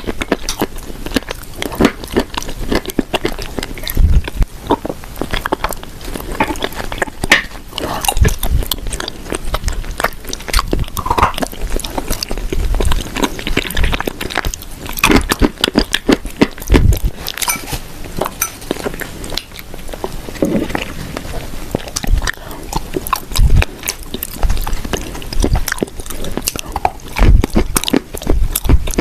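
Close-miked biting and chewing of dry, crumbly food (edible clay and shortbread cookies): a steady run of crunches, crumbling clicks and wet mouth sounds, with sharper bites every few seconds.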